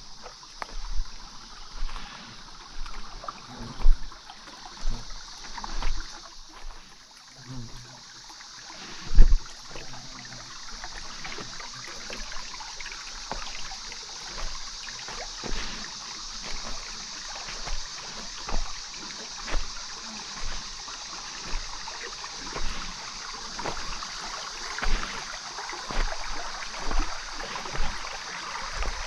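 Footsteps of a person walking on a forest trail, a soft thud about once a second, with one heavier step or knock about nine seconds in, over a steady high hiss.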